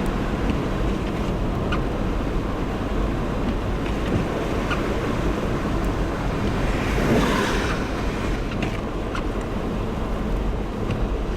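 Car driving on a slush-covered road: steady tyre and road noise with a hiss of slush, swelling briefly about seven seconds in.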